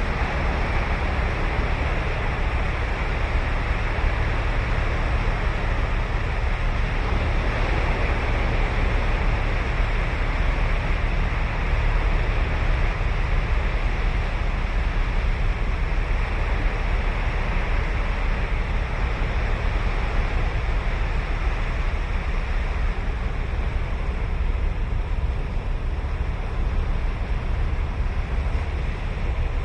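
Ocean surf washing steadily onto the beach, with a deep low rumble beneath it.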